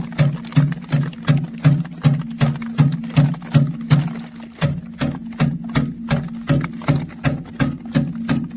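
Sorghum being threshed: a steady, rapid knocking, between two and three strikes a second, over a constant hum.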